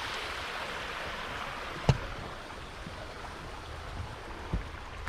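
Creek water flowing steadily over rocks. A sharp knock sounds about two seconds in, with a softer thump near the end.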